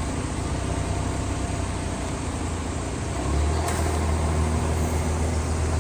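An engine idling with a steady low hum that grows a little stronger about three seconds in.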